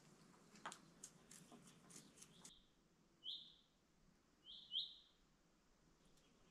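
A few faint clicks and taps, then a small bird giving four short chirps, two of them close together.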